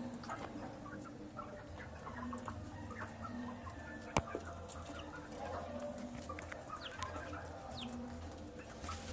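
Young chicks peeping and pecking at feed: many small ticks and short high peeps, one sharper knock about four seconds in, over a steady low hum.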